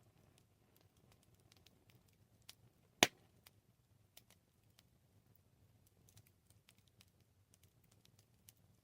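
Campfire crackling: scattered small snaps and ticks of burning wood, with one loud pop about three seconds in.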